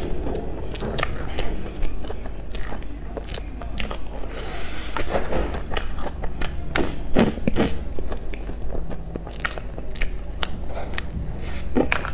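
Close-up biting and chewing of a soft, cream-filled bun with a crumbly sugar topping, with many sharp little mouth clicks and crunches.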